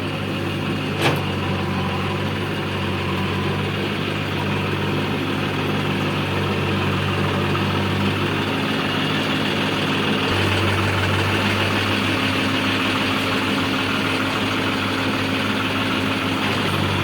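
Heavy diesel machinery engine running steadily, with one sharp knock about a second in and a slight change in its note about ten seconds in.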